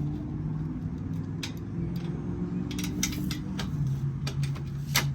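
Scattered light clicks and taps of screws and hand tools being handled while a fender screw is lined up, over a steady low hum.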